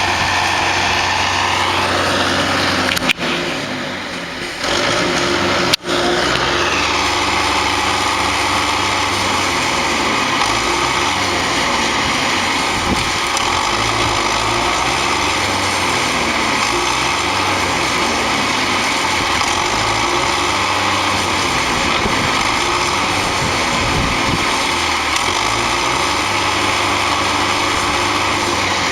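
Tractor engine running steadily. It dips briefly about three seconds in, with two sharp clicks around then.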